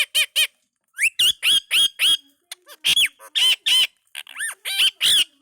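Indian ringneck parakeet calling in quick runs of short, shrill, high-pitched notes, with brief pauses between groups.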